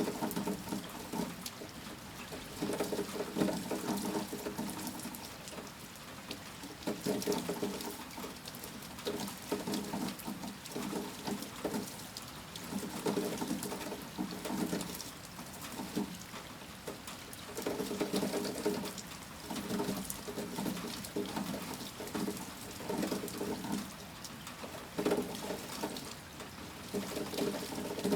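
Rain falling steadily, with a low pitched sound swelling and fading every two to three seconds over the patter.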